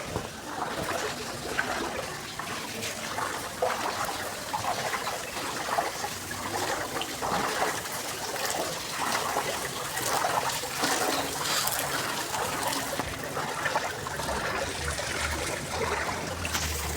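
Water trickling and sloshing steadily, with irregular splashes throughout.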